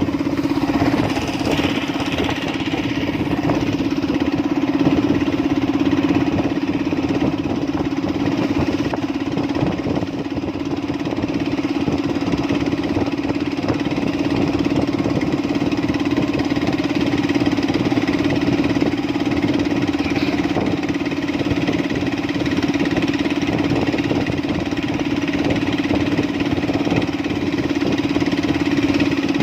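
An engine running steadily at a constant speed, with a strong even hum over a fast, fine pulsing.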